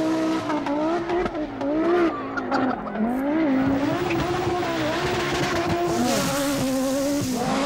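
Group B rally car engine running hard, its pitch rising and dropping repeatedly as the driver revs, lifts and changes gear.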